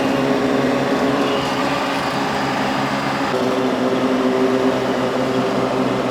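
Vehicle engine running under load with road and drivetrain noise, heard from inside the cabin while driving along a rough forest track; the engine note shifts a little over three seconds in.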